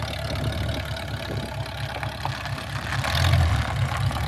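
Car engine idling with a steady low rumble, getting louder about three seconds in; it runs smoothly and sounds healthy.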